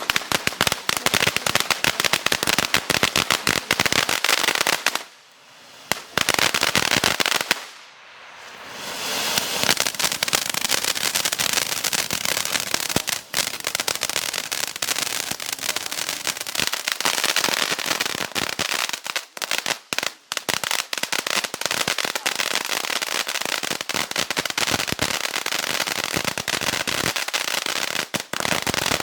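Six-tube fountain firework burning with a dense, rapid crackle of popping sparks. It drops out briefly twice, about five and eight seconds in, then carries on as a hissing, crackling spray.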